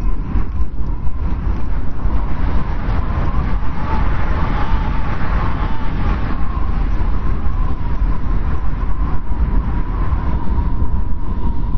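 Snowstorm wind blowing steadily, with a deep rumble beneath a thin, wavering whistle. The gust swells and fades again around the middle.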